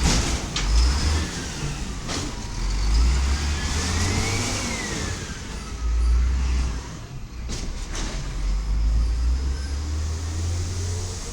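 A 1999 Volvo diesel garbage truck with an Amrep Octo automated side-loader body, its engine revving up in surges while a whine rises and falls in pitch, typical of the hydraulics working the arm. A few sharp metal clanks come near the start, about two seconds in, and again past the middle.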